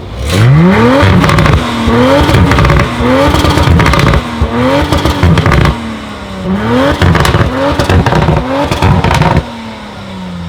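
A car engine revved hard again and again, each blip rising quickly in pitch and dropping back, with crackling on every rev. Near the end the revving stops and the engine settles back, its pitch falling away.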